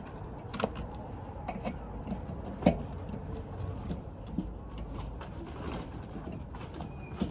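Irregular metal clicks and knocks of hand tools working on a truck wheel's lug nuts as the wheel is fitted, over a steady low rumble. The loudest knock comes a little under three seconds in.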